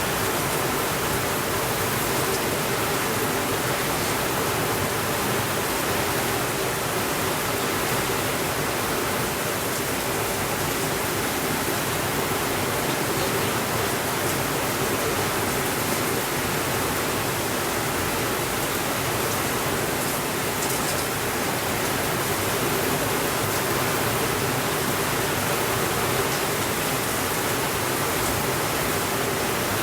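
Heavy rain falling steadily in a dense, even hiss, with a few faint ticks.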